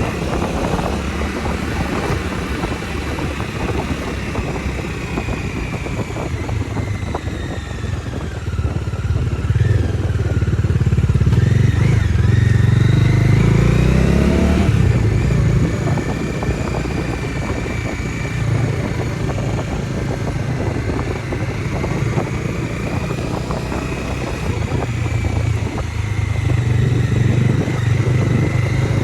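Bajaj Dominar 250 single-cylinder motorcycle engine running under way. The engine note climbs and grows louder from about ten seconds in, then falls away suddenly around fourteen seconds, and runs on at a steady lower pitch.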